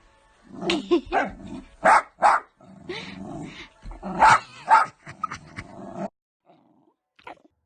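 Jack Russell terrier barking repeatedly in quick, sharp barks, stopping about six seconds in.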